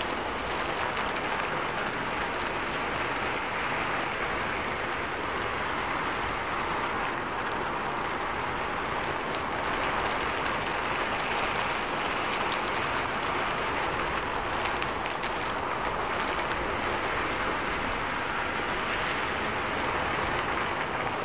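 Heavy rain falling steadily on a city street: an even hiss with scattered sharp drop ticks.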